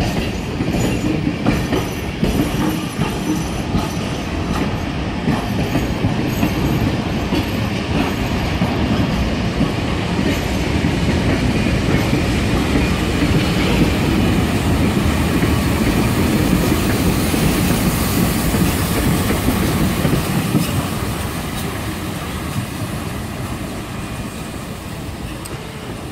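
Vintage passenger carriages of a heritage train rolling past over the points, with steady wheel clatter and some flange squeal. It grows louder as the trailing steam locomotive 3016 and its tender go by, then fades away.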